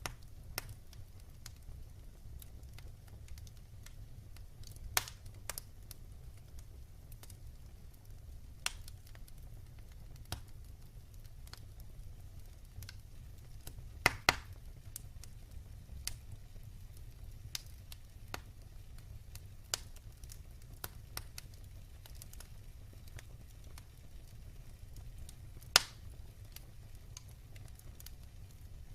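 Wood fire burning in a fireplace: a low steady rumble with scattered sharp crackles and pops, a few louder snaps including a quick double pop about halfway through.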